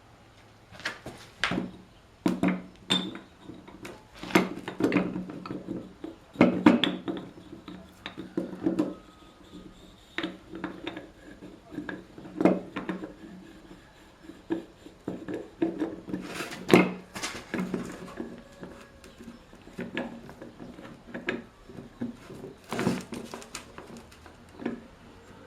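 Metal tools and engine parts clinking and knocking irregularly, some strikes leaving a short metallic ring.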